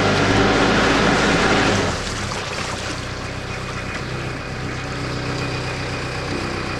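Canal narrowboat's engine running steadily; about two seconds in it drops to a lower, quieter run as the boat is brought in to moor.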